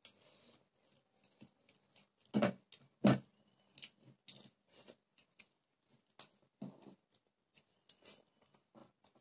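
Eating sounds: chewing and mouth clicks with scattered short ticks, and two louder knocks about two and a half and three seconds in.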